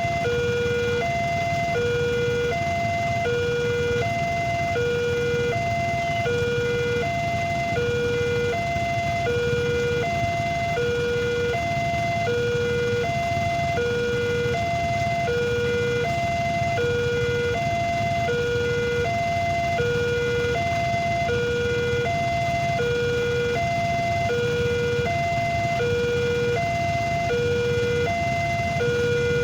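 Electronic two-tone warning alarm of a railway level crossing, a higher and a lower tone alternating steadily, about one pair every second and a half, over a steady low background rumble.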